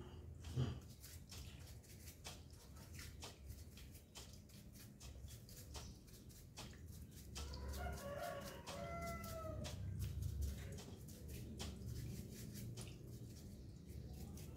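A rooster crowing once, about seven and a half seconds in, lasting about two seconds, over scattered light clicks and taps.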